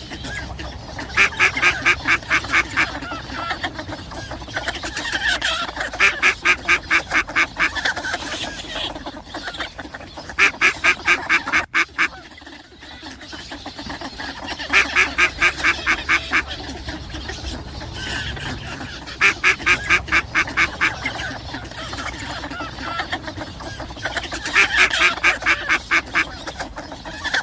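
Mallard ducks calling: a run of rapid quacks, about eight a second, comes back about six times, each run lasting a second or two, over steady lower chatter from the flock.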